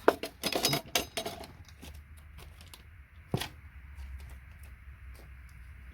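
A hammer tapping a paint scraper to knock connectors off a circuit board: a quick cluster of metallic clicks and clinks, then a single sharper tap a little past the middle.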